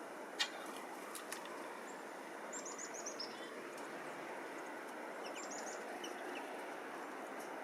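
Small songbirds give two quick runs of short, high chirps over a steady background hiss, with a sharp click about half a second in.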